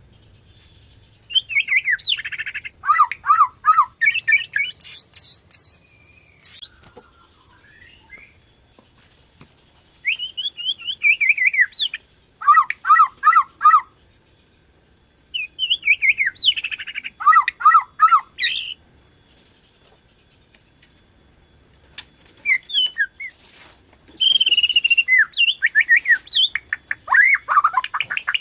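Bornean white-rumped shama (murai batu) in full song: loud phrases of clear whistles and quick runs of repeated down-slurred notes, with pauses of a few seconds between phrases.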